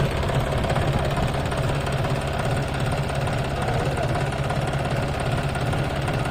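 Tractor diesel engine running steadily at low revs, an even hum without changes in speed.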